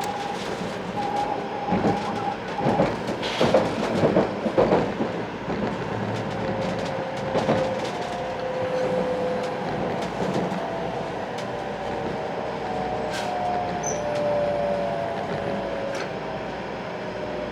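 Running noise heard inside a 500 series Shinkansen car, with a cluster of knocks and rattles a few seconds in. Through it run steady whining motor tones that slowly drop in pitch as the train slows.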